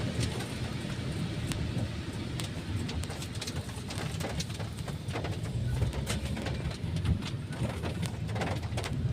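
Inside a moving car's cabin on a rainy drive: a steady low rumble of road and engine, with scattered irregular light taps across it.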